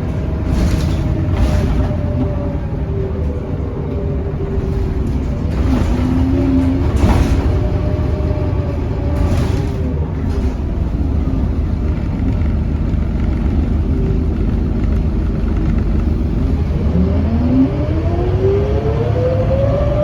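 Scania K230UB bus engine and ZF automatic gearbox running under way, its pitch easing gently lower over the first few seconds. A few short sharp sounds come in the first half, and near the end a whine rises steadily as the bus accelerates.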